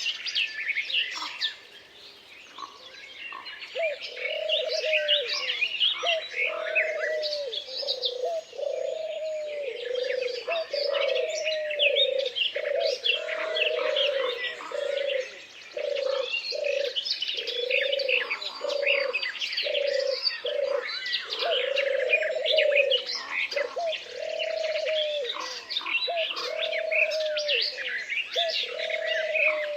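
Forest birds singing: a dense chorus of high chirps and warbles, joined about four seconds in by a low cooing call repeated roughly once a second.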